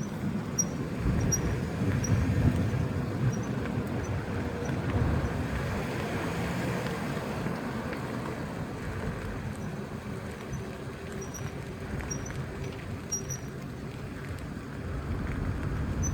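Car brakes squeaking in short high chirps over the low rumble of the moving car. The chirps come in a cluster in the first few seconds and again in the second half, which the owner puts down to a bad brake pad and rotor.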